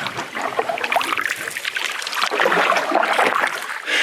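Water splashing and trickling around a canoe, as from a paddle dipping and dripping.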